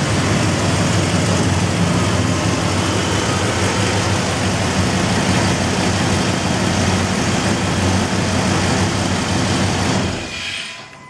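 Gasoline 360 V8 idling steadily, a fresh rebuild with under 10,000 miles that runs well. It is shut off near the end, and the sound dies away over about a second.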